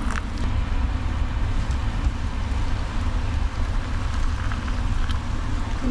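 Rain falling, an even hiss with a few faint ticks, over a steady low rumble.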